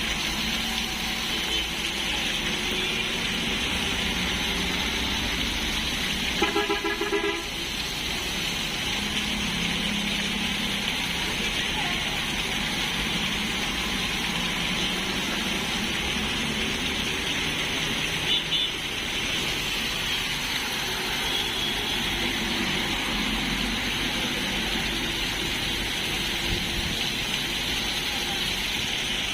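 Heavy rain falling steadily, with a vehicle horn sounding once, about seven seconds in.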